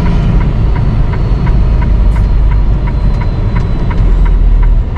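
Freightliner semi truck running at road speed, heard inside the cab: a steady low engine and road rumble, with a light ticking repeating about three times a second throughout.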